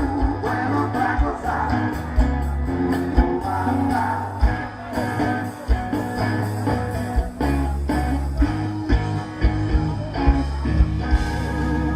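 A rock song played live: guitar, bass and drums with a singing voice, at a steady beat.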